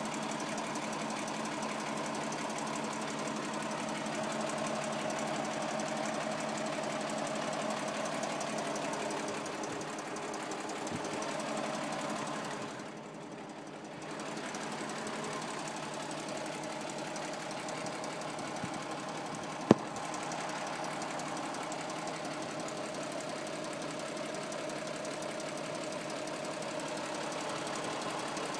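1962 Toyota Land Cruiser FJ40's straight-six engine running at a steady, constant speed. It turns briefly quieter and duller about thirteen seconds in, and a single sharp click stands out near twenty seconds in.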